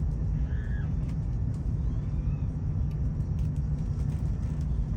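Steady low rumble of a high-speed train running, heard from inside the passenger cabin.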